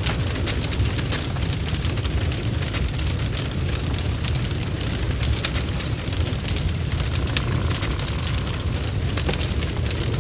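Bonfire crackling: a steady low rumble of burning with many sharp, irregular pops and snaps.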